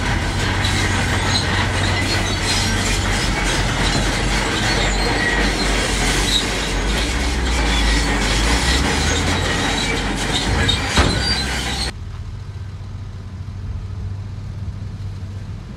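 Heavy diesel earthmoving machinery running, its low engine hum under loud grinding, clattering and squealing of metal and rock. The clatter cuts off abruptly about twelve seconds in, leaving only the engine hum.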